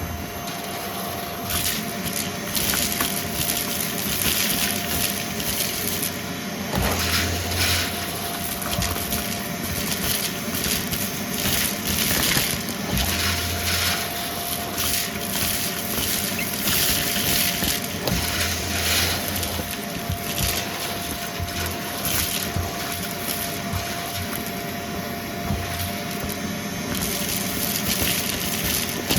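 Vacuum cleaner running with a steady tone, crackling and crunching irregularly as it sucks up crunchy debris.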